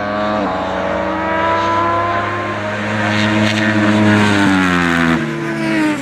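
Middleweight racing sportbikes' engines revving hard at full throttle. The pitch climbs through each gear and drops sharply at the upshifts, about half a second in and again near the end, with more than one bike heard at once.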